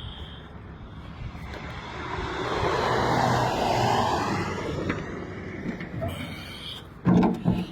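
A vehicle passing by, its rushing noise swelling and fading about three to five seconds in, then a short loud burst near the end.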